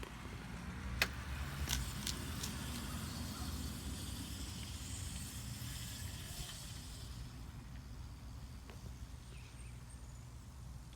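Motor vehicle running, with a hiss that swells and fades over the first several seconds as it passes. A sharp click comes about a second in, and a few lighter ones follow shortly after.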